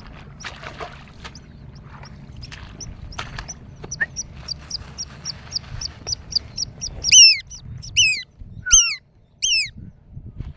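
Bird calls: a quick series of short, high, falling chirps, then four loud, sharply falling calls about a second apart near the end.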